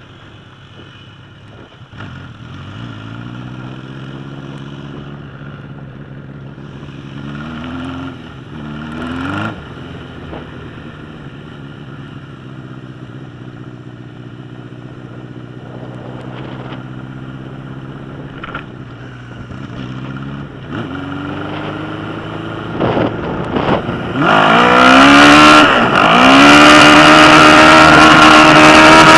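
1981 Suzuki GS1000's air-cooled inline-four running through straight pipes, revving up and dropping back several times as it goes through the gears. It starts faint and grows steadily louder, very loud over the last few seconds.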